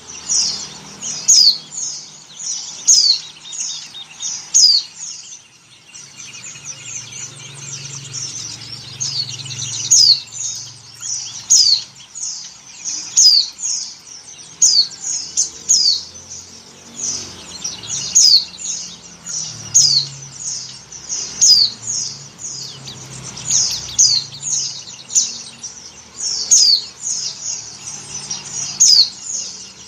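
Female white-eye (pleci) in breeding condition calling to a male: short, high chirps that sweep downward, repeated every second or so and often overlapping.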